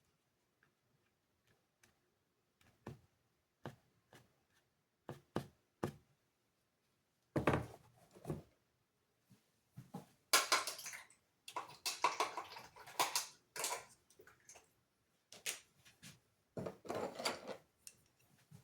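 Objects being handled on a tabletop: scattered light knocks and clicks, then several seconds of louder scraping and rustling from about halfway through.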